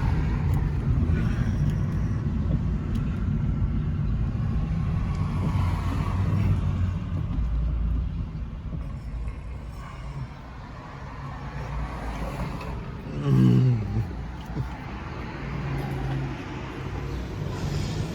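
Car driving, a steady low engine and road rumble. About two-thirds through, a brief louder sound falls in pitch.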